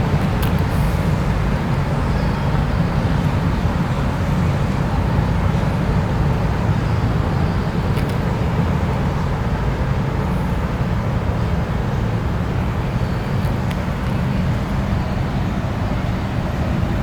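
Steady low engine rumble that holds its level throughout, with a light hiss above it.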